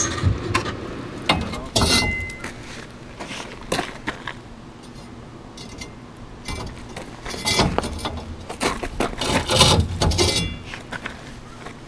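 Steel rebar clanking and scraping against metal as a red-hot end is worked around a trailer hitch to bend a loop, in irregular knocks, some ringing briefly. The clanks come in two clusters, at the start and again in the second half.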